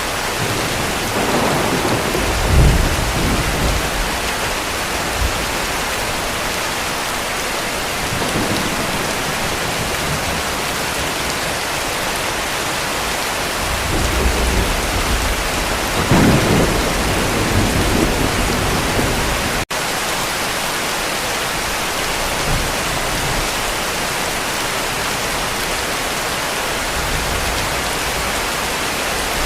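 Heavy rain falling steadily, with distant thunder rumbling twice: once about two seconds in and again, longer, around fifteen seconds in. A momentary dropout in the sound comes just before the twenty-second mark.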